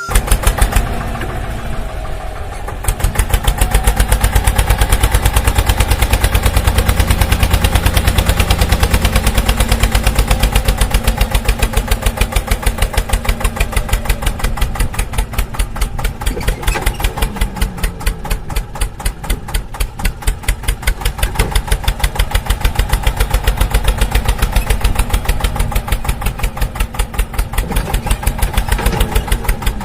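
A tractor engine running with a quick, even thumping beat that gets louder about three seconds in.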